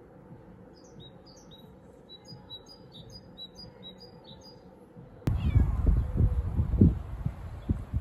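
A small bird chirping a quick series of short, high notes. About five seconds in, loud low rumbling starts suddenly and comes in uneven gusts, like wind buffeting the microphone.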